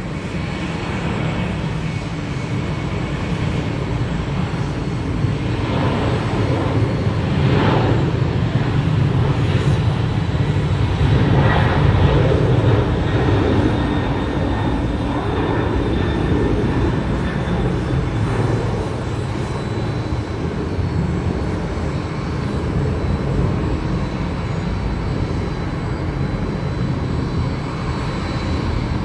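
Boeing 767-300F freighter's jet engines, a steady roar that swells to its loudest about ten seconds in and then slowly eases off, with a faint high whine over it.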